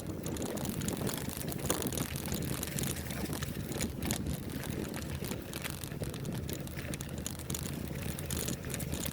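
Trail bike riding over rough ground: a steady rushing noise with many small rattles and clicks from the bike.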